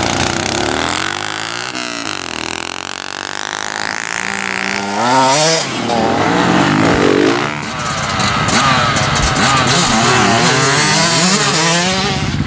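Motorcycle engines revving and running past, their pitch rising and falling again and again, loudest about five seconds in.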